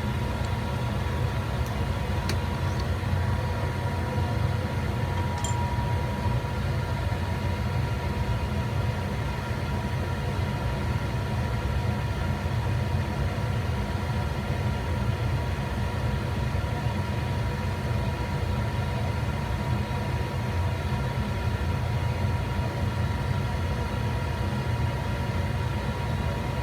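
Steady low machinery hum with a thin steady whine over it, unchanging throughout, and a couple of faint light clicks.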